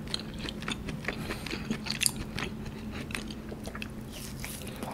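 Close-miked mouth sounds of eating soft, fatty A5 wagyu beef: a steady run of small, wet chewing clicks, with a bite into a fresh piece near the end.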